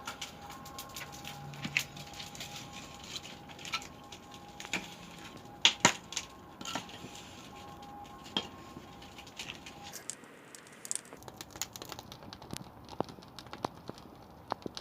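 Pine firewood burning in a traditional wood-fired kiln, crackling and popping irregularly, with the loudest pops about six seconds in.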